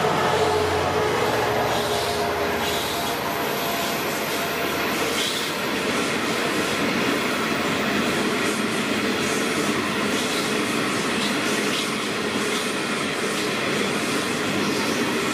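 Coal train passing close by: the locomotive's low engine hum in the first couple of seconds, then a long string of coal hopper wagons rolling past with a steady rumble and clatter of wheels on the rails.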